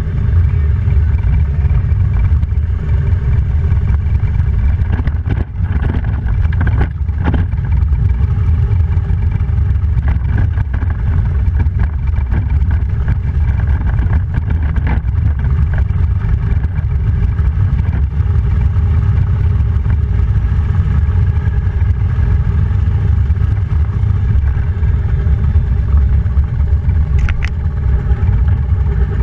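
Motorcycle engine running steadily at cruising speed, with a loud, constant low rumble and wind rush. Its level dips briefly about five seconds in.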